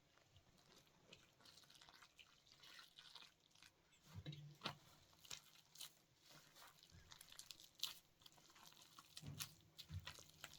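Faint, irregular small clicks and crackles, with a few louder snaps and soft low knocks, over near silence.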